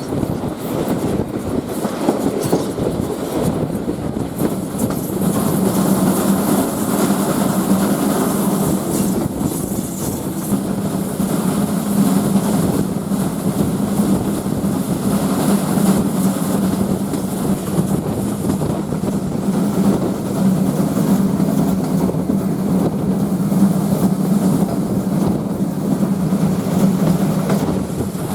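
Passenger train running on the rails: a steady rolling rumble, with a low steady hum that comes in about five seconds in and holds.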